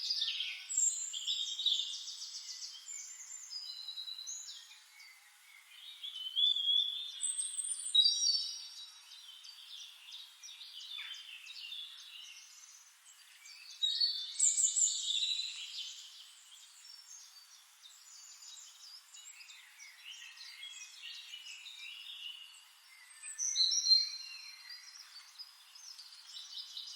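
Several wild woodland songbirds calling and singing at once: dense, overlapping short chirps, twitters and trills, with a few louder bursts of song.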